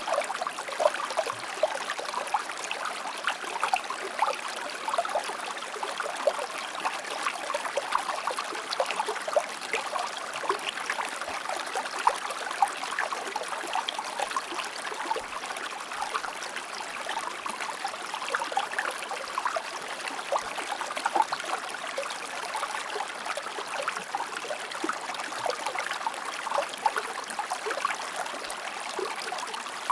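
A river flowing, its water babbling and splashing continuously.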